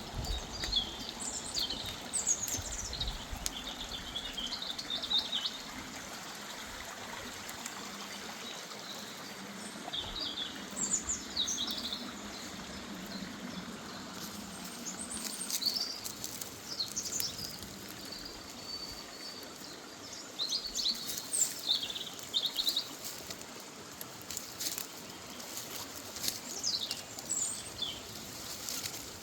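Songbirds singing in short phrases of quick, high chirps every few seconds, over the steady rush of a woodland river.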